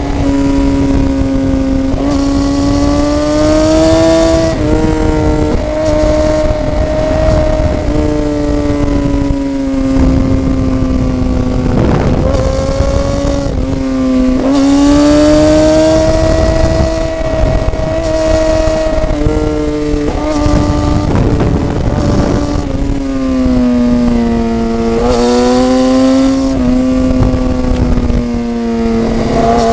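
Sport motorcycle engine running hard on the road, its pitch rising and falling as the rider works the throttle, with short drops where gears are changed. Wind rushes over the microphone the whole time.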